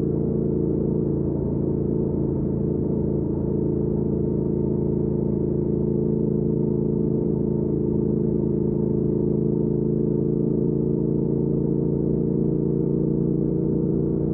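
2019 Triumph Speed Twin 1200's parallel-twin engine, breathing through a Weslake Shorty Pro aftermarket exhaust, running at a steady speed while the bike cruises.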